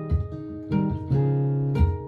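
Martin GPCPA4 acoustic guitar playing plucked notes over low bass notes, improvising over a looped guitar part, with a new note struck about every half second.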